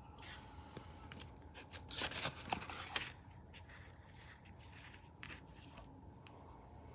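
Rustling and crinkling handling noise, a cluster of scraping strokes loudest for about a second starting two seconds in, over a faint steady hum.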